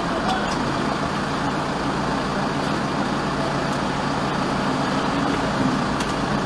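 Vehicle engine idling steadily, heard from inside the stopped vehicle's cab, with a low steady hum.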